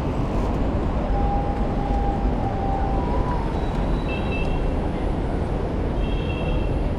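Steady street traffic noise heard from a moving bicycle, a dense low rumble of vehicles. A faint tone sounds from about a second in to about three seconds in, and two short high-pitched tones come at about four and six seconds.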